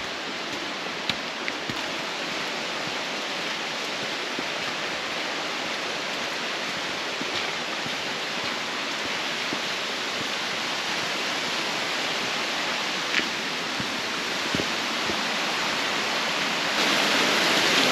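Steady rushing of a waterfall, growing slowly louder and then stepping up louder about a second before the end.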